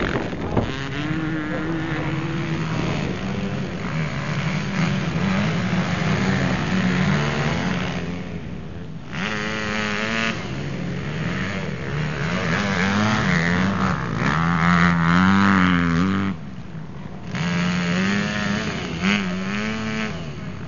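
Several off-road motocross motorcycle engines revving. Their pitch repeatedly climbs and drops with throttle and gear changes, and two or more engines overlap at different pitches.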